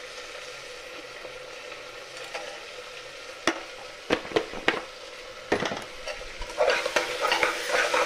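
Onions and tomatoes sizzling as they fry in a pressure cooker. About halfway through come a few sharp clinks of a steel spoon against the cooker. Near the end the spoon stirs and scrapes through the vegetables and the crackling grows louder.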